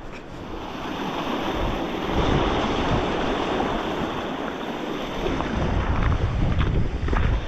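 Wind gusting against the microphone over a steady rushing noise, with a few faint clicks near the end.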